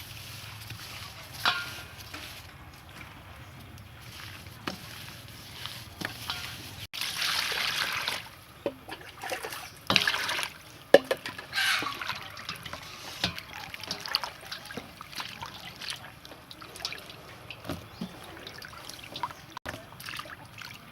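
Water sloshing, splashing and trickling as fish is washed by hand in a bowl after being rubbed with salt, with small knocks of handling. The louder splashes come about 7 seconds in and again around 10 to 12 seconds.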